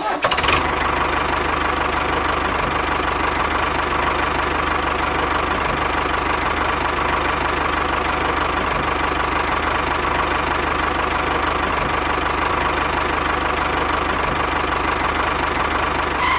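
Small electric motor of a homemade miniature model running steadily, with a high whine over a low hum.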